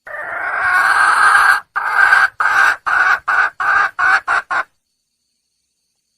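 A junglefowl hen calling for a male: one long, drawn-out cackling call that swells in loudness, then a run of about eight short clucks that come quicker and shorter until they stop a little before five seconds in.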